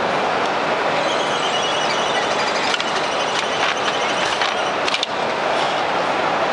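Semi-automatic double-wire binding machine running with a steady mechanical noise, a faint high whirring early on and a few sharp clacks of its mechanism around the middle.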